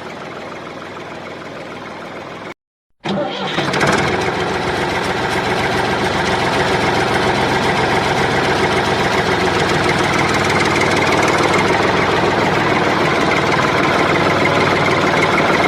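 An engine starting up about three seconds in, after a brief dropout to silence, then running steadily and loud.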